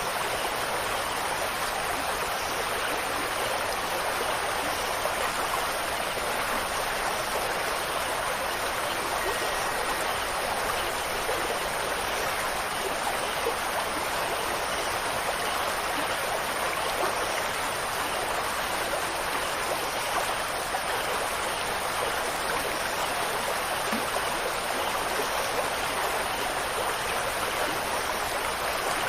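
Steady, even rush of flowing water with no change or distinct events, and a faint steady high tone above it.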